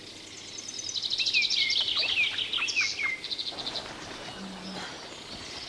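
Songbirds calling: a rapid high trill together with a few short down-slurred whistles, dying away after about three and a half seconds.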